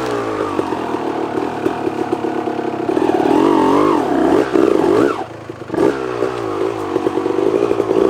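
1989 Honda CR250R's two-stroke single-cylinder engine running and being revved up and down several times; it drops back briefly about five seconds in, then picks up again.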